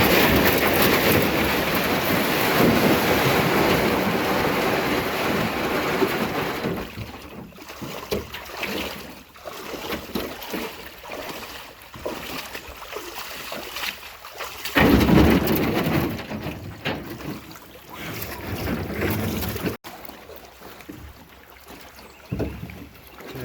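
Rushing water and wind buffeting the microphone as a canoe runs river rapids. It is loudest for the first several seconds and again in a burst about two-thirds of the way in, then breaks off suddenly.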